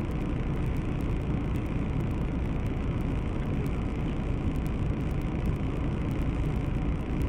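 Steady low rumble of a car's engine and cabin as picked up by a dashcam inside a stopped car; the collision ahead makes no distinct bang.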